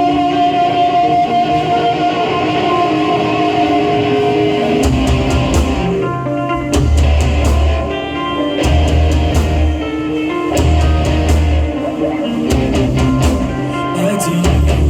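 Live rock band playing: guitar at first, then bass notes and a drum kit come in about five seconds in and the full band plays on.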